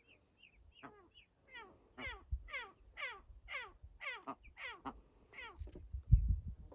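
An animal calling: a series of about ten quick calls, each falling sharply in pitch, about two a second. A low thump comes near the end.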